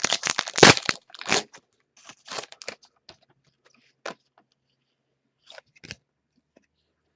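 Trading cards being handled and sorted: a burst of crinkly rustling in the first second, then scattered light clicks and rustles.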